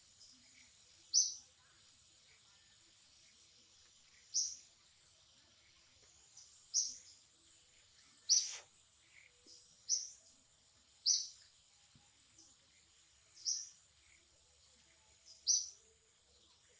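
A bird giving short high chirps, about eight in all, spaced irregularly one to three seconds apart, over a faint steady high hiss.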